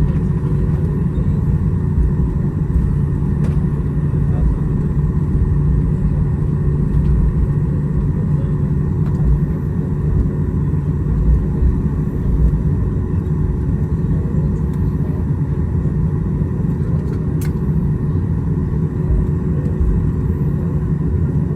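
Steady low rumble of an airliner cabin after landing, the aircraft's engines and air systems running, with a steady hum over it and a couple of faint clicks.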